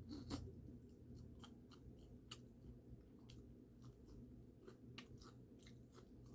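Faint chewing of Popeyes fried chicken close to the microphone: irregular small wet clicks and light crunches, one slightly louder near the start.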